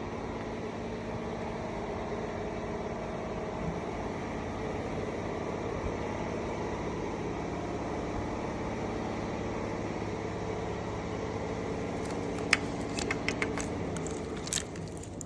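Mitsubishi 4D56 four-cylinder diesel engine idling steadily. Near the end a few sharp clicks sound over it.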